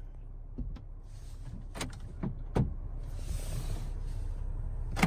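Handling sounds in a car over a low steady rumble: several short clicks and knocks, then a hiss lasting a second or two.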